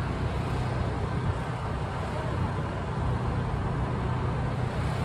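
Steady low rumble of distant vehicles, including a slow freight train rolling by on an elevated line, over a constant low hum.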